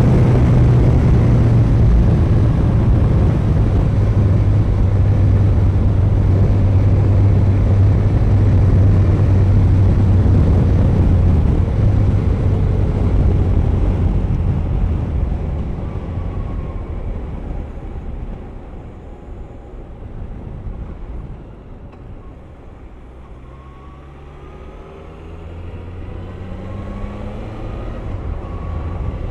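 Suzuki GSX1250FA's inline-four engine running at speed under loud wind rush. The sound eases away over several seconds as the bike slows, then the engine pitch climbs in a few rising sweeps as it accelerates again near the end.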